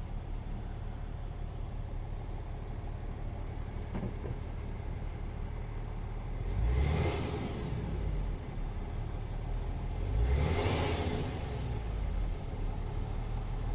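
MAN TGX 18.500 truck's inline-six diesel idling steadily, revved up twice: once about halfway through and again a few seconds later, each time dropping back to idle.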